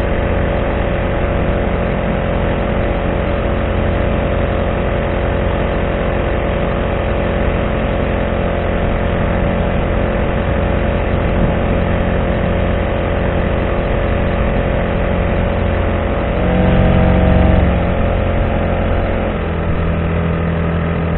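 Honda GX35 single-cylinder four-stroke outboard on a kayak, running steadily at part-throttle cruising speed. About three-quarters of the way through the note briefly gets louder and shifts in pitch, then settles into a slightly different steady note.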